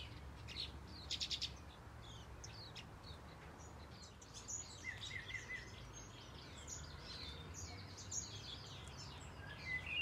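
Aviary finches and softbills chirping and twittering, with a quick rattle about a second in and a short repeated trill about halfway through, over a steady low background rumble.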